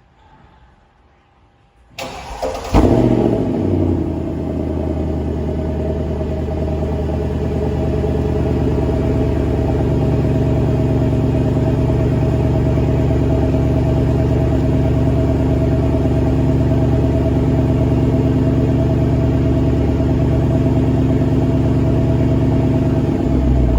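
Mercedes-Benz CLS 63 AMG's 6.2-litre V8 cold-starting on its stock exhaust. It cranks briefly about two seconds in and catches with a loud flare, then settles into a steady idle.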